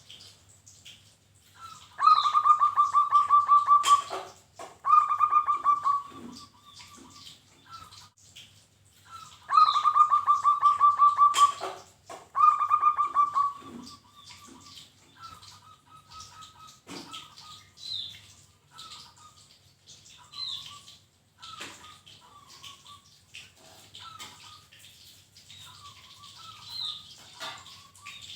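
Zebra dove (perkutut) song: loud, rapidly pulsed trilling coos given in two bouts of two phrases, about two and ten seconds in. After them come softer scattered coo notes and a few brief higher chirps.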